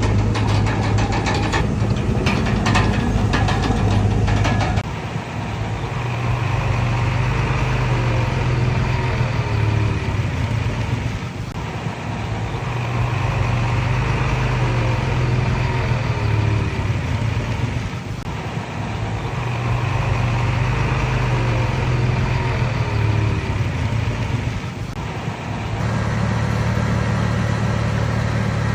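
Diesel engine of a crawler bulldozer running at work, its level swelling and dropping about every six to seven seconds. Rapid clanking for the first five seconds, with faint squeaks now and then.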